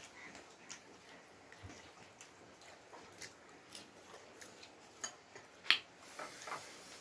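Eating sounds of crunchy potato chips being bitten and chewed: a scatter of small crisp clicks, with one sharper click near the end.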